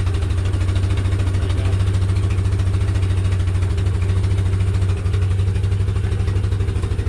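ATV engine running at a steady low speed, with an even, fast pulsing hum and no revving.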